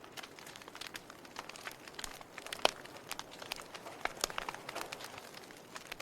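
Log fire crackling: irregular sharp pops and snaps over a soft hiss of burning wood, with one louder pop about two and a half seconds in.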